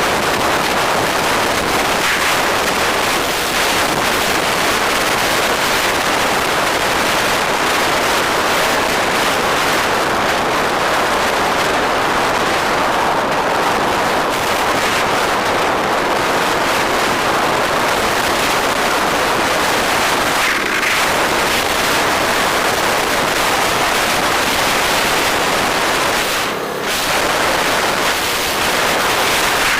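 Steady loud rush of wind and road noise heard from a moving bike, with a brief dip near the end.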